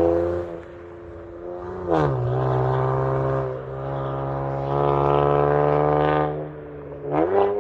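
Exhaust of an Infiniti Q50/Q60's 3.0-litre twin-turbo V6 through a 3-inch AAM Competition catback and catted downpipes, revving in steady pulls. The note drops away twice, and twice there is a quick dip and rise in pitch as the throttle comes back on.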